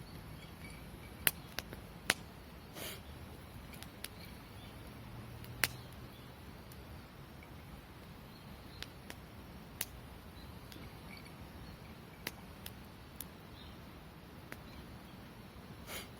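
Campfire crackling: sharp pops and snaps at irregular intervals, some close together, over a low steady hiss.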